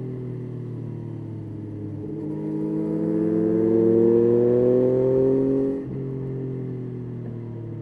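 Yamaha Tracer 9's 890 cc inline-three engine under way: the pitch eases down, then rises steadily under acceleration for about four seconds, drops abruptly about six seconds in, and runs on steadily at a lower pitch.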